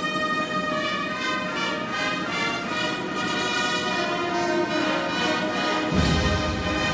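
Military brass band playing held, chord-rich brass music, with a low, heavy entry of drum or low brass about six seconds in.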